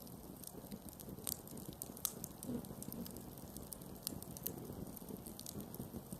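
Campfire burning, wood crackling and popping irregularly over a soft low rumble of flame, with a couple of sharper pops about a second and two seconds in.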